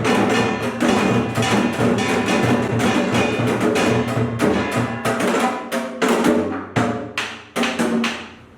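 Pungmul percussion ensemble, a kkwaenggwari small gong leading janggu hourglass drums and buk barrel drums, playing a fast dense rhythm. After about six seconds it breaks into a few spaced, accented strokes and stops near the end.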